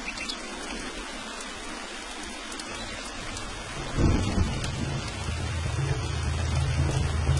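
Steady rain hiss, and about four seconds in a roll of thunder breaks in with a sudden low rumble that keeps rumbling on under the rain.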